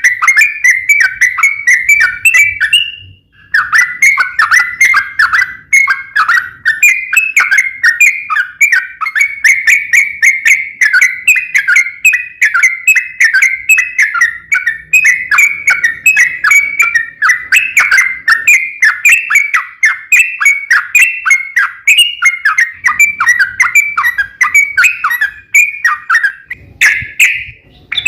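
Yellow-vented bulbul (trucuk) singing a long, rapid run of chattering, whistled notes, loud and nearly unbroken, with one short pause about three seconds in.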